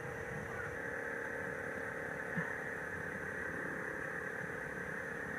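A steady machine noise with a held whine in it, switched on just before and cut off suddenly near the end.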